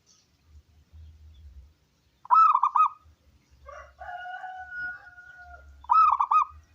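Zebra dove (local perkutut) singing: two quick trilled cooing phrases, about 2 and 6 seconds in, with a longer held note between them.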